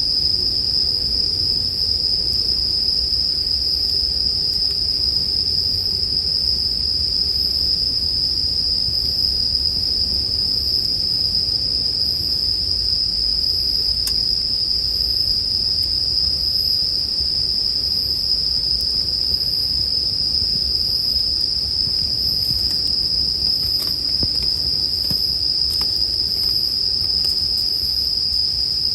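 Japanese bell crickets (suzumushi) singing in a continuous high-pitched ring, with a few faint crackles from a campfire.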